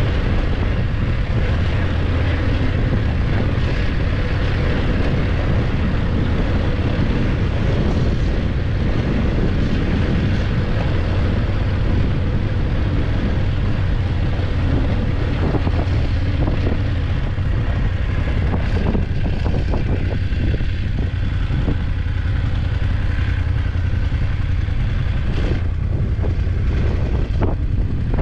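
BMW F850GS parallel-twin engine running steadily under way, mixed with wind rush on the microphone, and a few short knocks in the second half.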